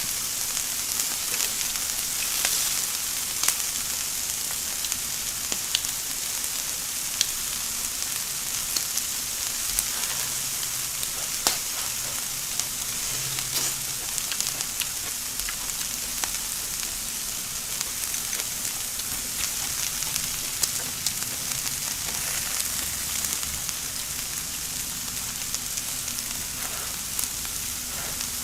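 Shrimp and vegetables sizzling in oil on an electric tabletop grill: a steady frying hiss with frequent small crackling pops.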